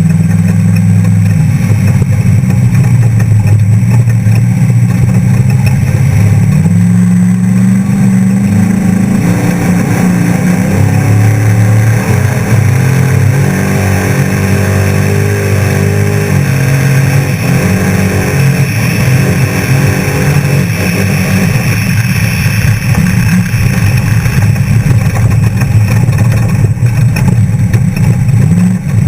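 Off-road trophy truck's race engine running loud and continuous, its pitch rising and falling as the throttle comes on and off.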